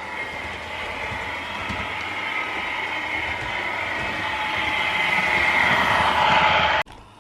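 Model train running on a layout: a steady whine from the locomotive's motor with the rumble of wheels on the track, growing louder until it cuts off suddenly near the end.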